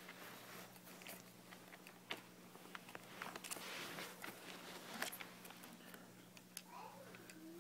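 Faint scattered clicks and light taps of small toy cars being handled and knocked together, over a low steady hum.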